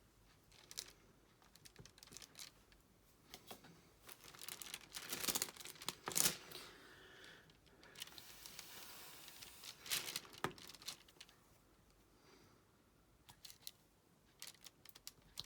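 Diamond painting work: irregular small clicks and taps of a drill pen and plastic resin drills on the canvas and tray, with bursts of plastic crinkling, the longest about eight seconds in.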